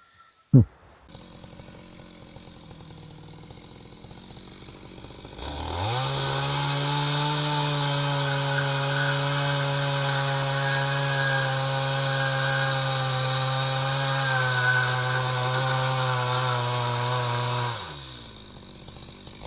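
Small petrol engine of a handheld power tool such as a chainsaw, idling and then revved up about five seconds in. It holds a steady high speed for about twelve seconds, drops back to idle, and revs up again at the very end. A brief sharp sound comes just after the start.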